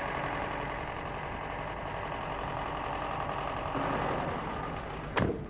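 Massey Ferguson 600-series tractor's Perkins diesel engine running steadily, heard from inside the cab, where it is really quiet. Just after five seconds a brief sharp swoosh sweeps down in pitch.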